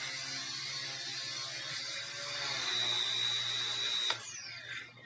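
K110 micro RC helicopter's electric motor and rotor running, with a whine that climbs to a high steady pitch about three seconds in. Near the end there is a click, then the whine glides down as the motor spins down.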